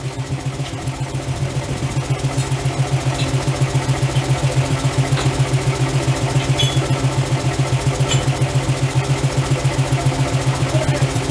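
Heavy forge machinery running with a steady, rhythmic low throb that pulses several times a second and gets a little louder about two seconds in. There are a few faint metallic clicks.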